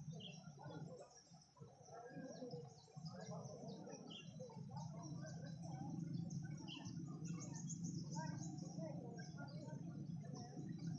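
Small birds chirping and twittering, many short high calls with a few quick trills, over a steady low hum.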